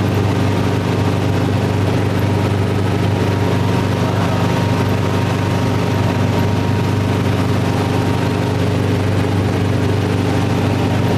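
Helicopter engine and rotor noise heard from inside the cabin in steady cruising flight: a constant, even drone with a low hum of several steady tones.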